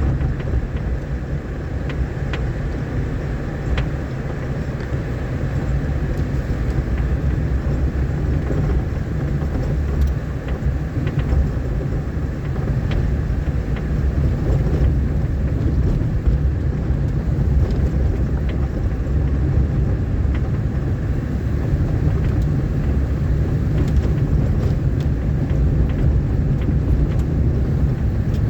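Road vehicle driving on a rough, rain-damaged dirt road: a steady low engine and road rumble with scattered small clicks and knocks.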